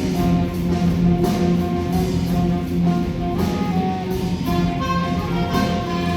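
A wind ensemble of brass and woodwinds with percussion playing music: held notes sounding together, with regular percussion strikes throughout.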